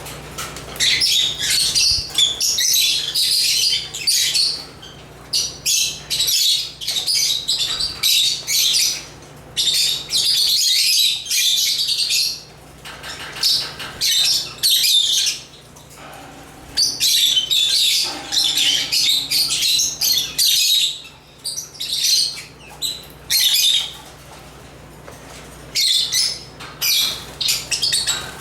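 African lovebirds (Agapornis) chattering in rapid, high-pitched chirps that come in bouts of one to several seconds, broken by short pauses.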